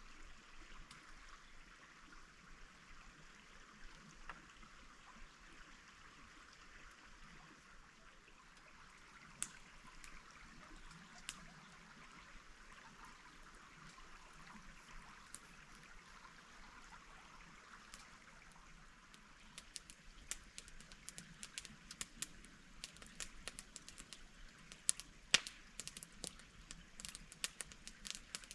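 A stream flowing steadily as a soft, even rush of water. From about two-thirds of the way in, a dense run of sharp, irregular clicks and crackles joins it.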